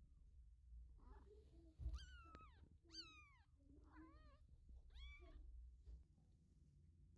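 Three-week-old kittens mewing: about four thin, high-pitched cries, each arching and falling, spaced about a second apart, with a low bump just before the first.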